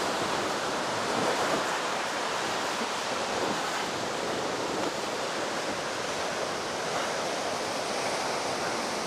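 Heavy ocean surf breaking on a sandy beach, a steady rushing noise with no single crash standing out; the waves are high after a typhoon.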